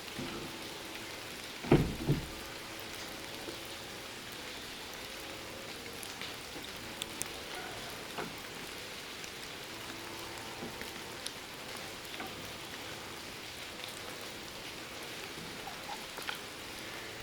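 Steady patter of rain, with two sharp knocks in quick succession about two seconds in.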